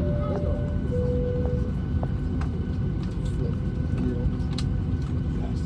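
Steady low rumble inside a Boeing 737-800 cabin on the ground before take-off, from the aircraft's engines and air systems. Near the start come two short steady tones, the second a little lower than the first.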